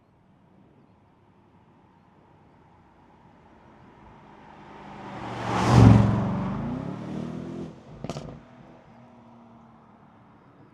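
Aston Martin Vantage S Roadster's V8 driving past: the engine rises to a loud peak about six seconds in, then drops in pitch as it moves away, with a brief burst of engine sound about two seconds later.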